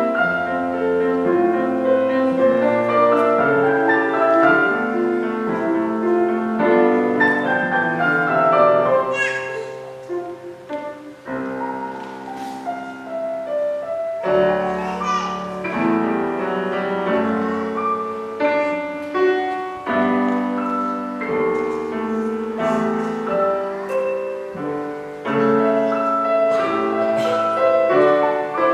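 Piano playing a melody over chords, with a Java sparrow's short high chirps joining in a few times.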